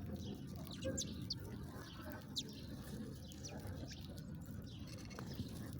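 Small songbirds chirping: a few short, sharp chirps that drop quickly in pitch, about a second in and again near two and a half seconds, over a steady low background rumble.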